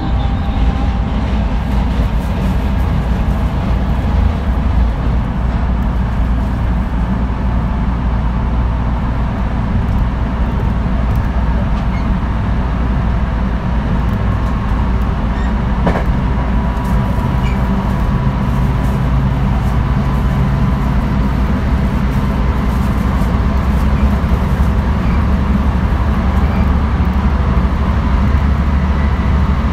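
Running sound of a JR West 223 series 1000 subseries electric train fitted with a Hitachi first-generation IGBT inverter: a steady low rumble of the train under way. A faint whine near the middle of the range slowly rises in pitch through the second half.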